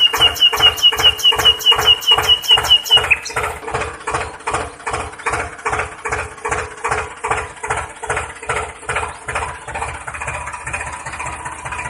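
A tractor engine chugging steadily at about three to four beats a second. About three seconds in, the sound changes abruptly and carries on quieter at the same beat.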